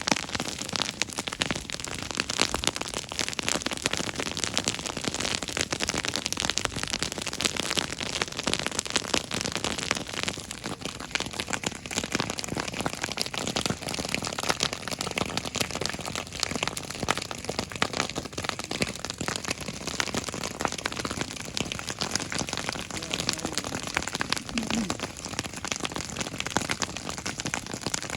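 Grass fire burning, mostly dry grass with some green, a dense steady crackling of many small pops.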